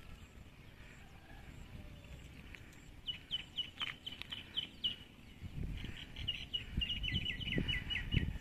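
A bird calling in a series of short, sharp repeated notes, about four a second, starting about three seconds in, then a second, faster run near the end. Underneath it there is an uneven low rumble on the microphone.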